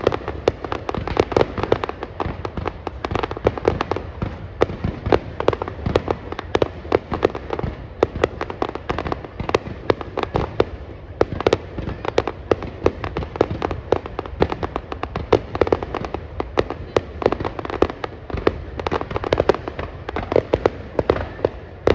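Fireworks going off in a dense, continuous barrage: many sharp bangs and pops a second, overlapping one another with no pause.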